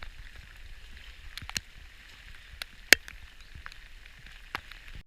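Kayak paddling: water splashing and dripping off the paddle blades, with a few short knocks and clicks against the hull, the sharpest about three seconds in.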